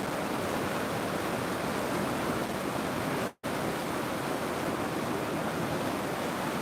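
River water rushing in a steady, even hiss, broken by a sudden gap of a fraction of a second about halfway through.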